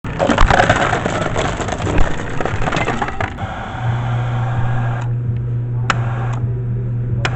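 Crunching, splintering crash noise for about three seconds, then a steady low hum with a few sharp clicks.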